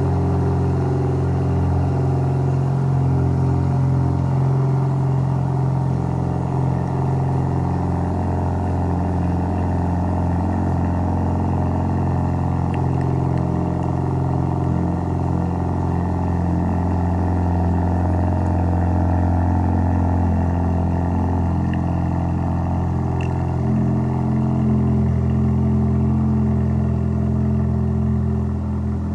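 Honda Civic Mugen engine idling steadily just after a cold start; near the end its note shifts slightly.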